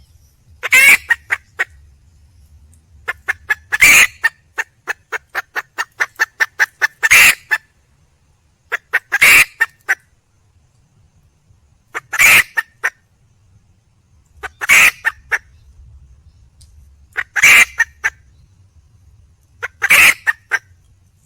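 Red junglefowl hen calling to attract a mate: a loud, harsh call repeated about every two and a half seconds, eight times. A quick run of short clucks, about four a second, comes between the second and third calls.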